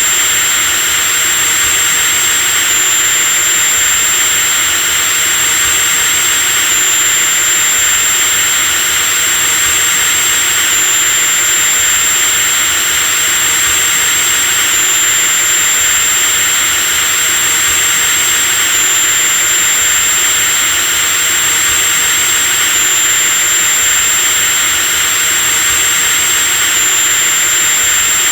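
Electric drill motor running continuously at a steady speed: a high, steady whine over a dense hiss of motor noise.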